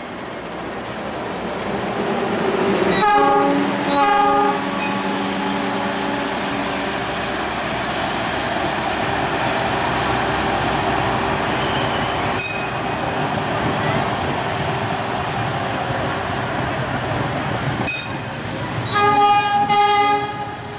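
A KAI CC 206 diesel-electric locomotive and its passenger coaches pass close by, making a steady loud rumble of engine and wheels on rail. A train horn sounds two blasts about three seconds in and two more short blasts near the end.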